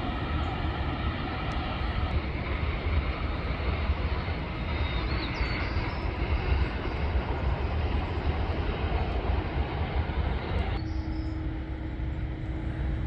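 Jet airliner engines running with a steady low rumble and a faint whine. About eleven seconds in, the sound changes abruptly: the higher part drops away and a steady hum takes over.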